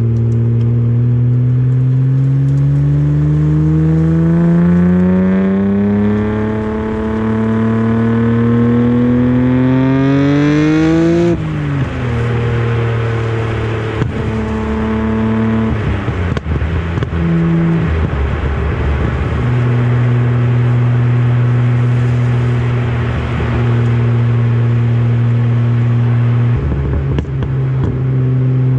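Nissan Skyline R34 GT-R's RB26DETT straight-six pulling hard through one gear, its note rising steadily for about nine seconds, then falling away sharply as the throttle closes. It then runs at a mostly steady cruising note, with a couple of sharp clicks.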